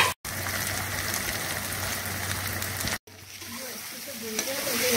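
Potato and masala curry sizzling as it fries in oil in the pan, a steady hiss. It cuts out twice, and after the second cut the sizzling is quieter, with a faint voice over it near the end.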